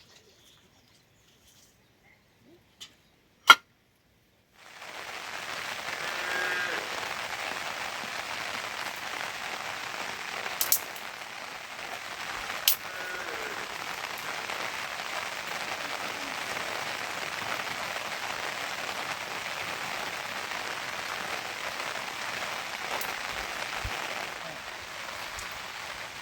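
Steady rain, an even hiss that starts suddenly about five seconds in after near silence. A few sharp clicks or taps stand out from it.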